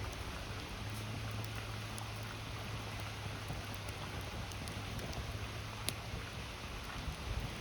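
A river's steady rush of water with a campfire crackling over it: a few faint, sharp pops, the clearest about six seconds in.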